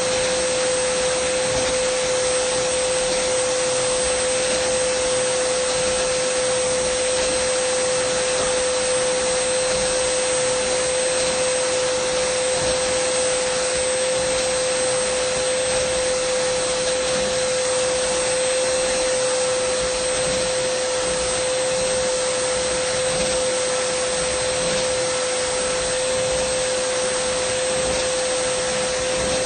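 Dyson vacuum cleaner running steadily: a constant motor whine over a rush of air, unchanging throughout.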